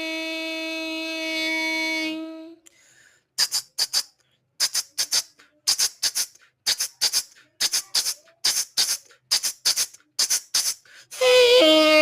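A mimicry artist making instrument sounds with his mouth. First a steady, reedy held note like a horn or shehnai, which stops about two and a half seconds in. Then a run of short, sharp hissing bursts, mostly in pairs, like a shaker rhythm. Near the end the held note comes back, starting with a brief wobble in pitch.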